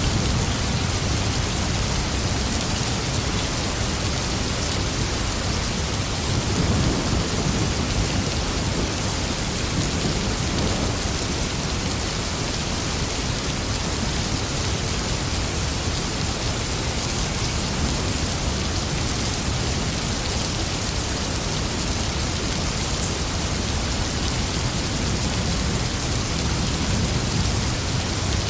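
Steady heavy rain falling, with low thunder rumbling in slow swells a few times.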